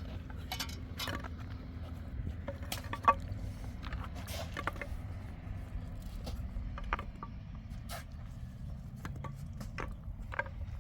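Scattered, irregular clicks and knocks over a steady low rumble, with one sharp knock about three seconds in.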